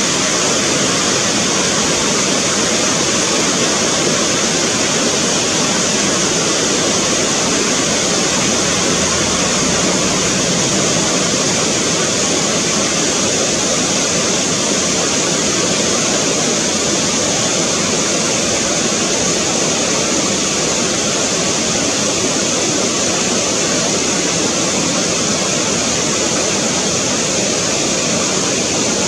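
Steady rushing of a mountain stream's flowing water, even and unbroken.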